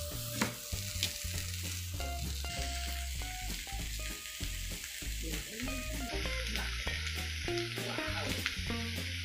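Tuna pieces sizzling as they fry on an electric griddle, with metal tongs clicking and scraping against the pan while greens are stirred into the simmering pot beside it.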